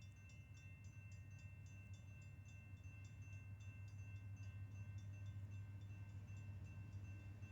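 Faint, rapid pinging of a distant railroad grade-crossing bell, over a steady low rumble from the approaching CSX freight train's diesel locomotives that grows slightly louder.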